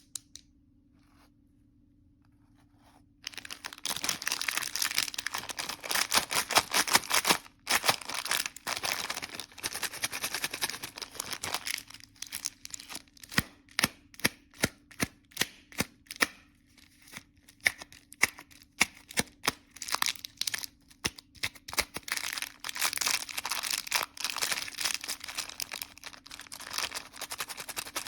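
Candy wrapper crinkled and torn open close to the microphone: dense crackling starts about three seconds in, breaks into separate sharp crackles midway, then turns dense again.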